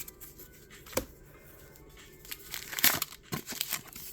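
Crinkling and rustling of a Pokémon booster pack's foil wrapper and cards being handled, with a sharp click about a second in and a quick run of crackles near the end.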